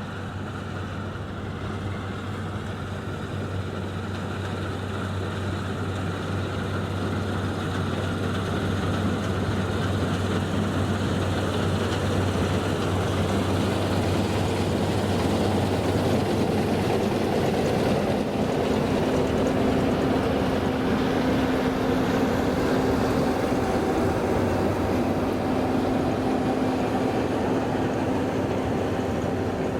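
Farm machinery engine running steadily, growing louder over the first half as it comes closer, its pitch shifting a little more than halfway through.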